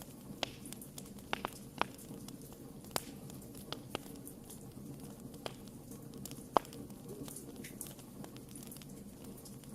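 Campfire crackling: irregular sharp pops and snaps over a steady low rush of burning wood, with one louder pop about two-thirds of the way through.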